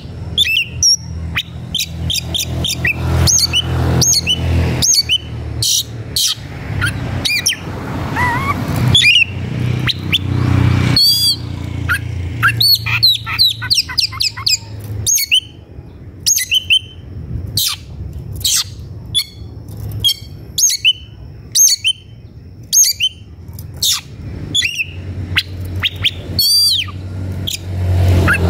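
Oriental magpie-robin (kacer) singing an agitated, fast run of sharp whistles, chirps and harsh squawky notes, the combative song of a male fired up and looking for a rival. A steady low rumble, like an engine, runs underneath, strongest in the first half and again near the end.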